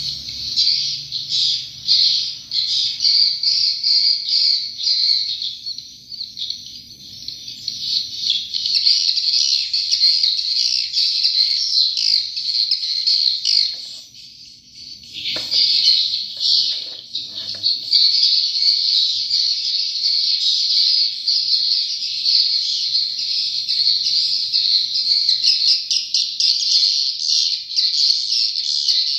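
A large flock of edible-nest swiftlets twittering continuously, a dense high chirping chorus that dips briefly about halfway through.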